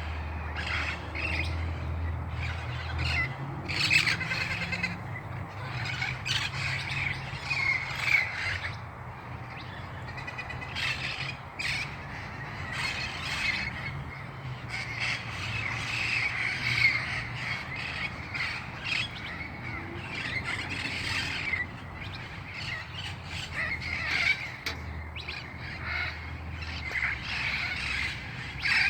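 Red-crowned Amazon parrots calling, with harsh squawks repeating throughout. A low hum sits underneath, louder near the start and again near the end.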